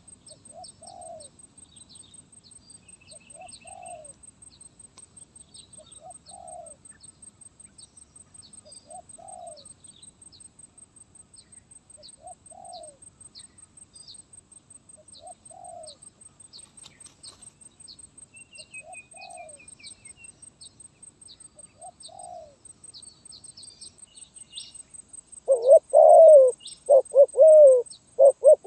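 Spotted dove (terkukur) cooing: a faint, short single coo repeated about every three seconds. In the last few seconds come much louder coos, several in quick succession. Short high chirps of small birds or insects and a steady high buzz run underneath.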